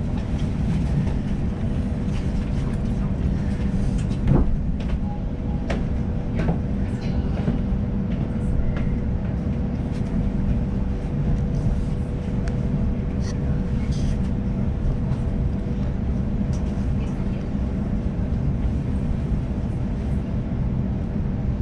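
Sydney electric suburban train running, heard from on board: a steady low rumble with one constant hum over it and scattered clicks and rattles.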